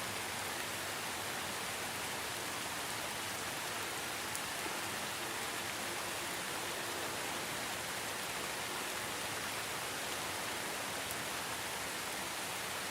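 Steady rain falling, an even hiss without thunder or distinct drops.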